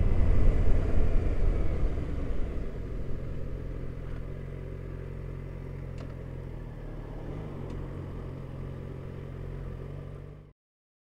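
Motorcycle engine running, loud at first and then settling to a steady lower hum, cutting off suddenly about ten seconds in.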